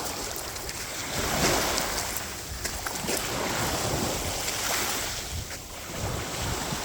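Surf washing on a beach, rising and falling in swells, with wind rumbling on the microphone.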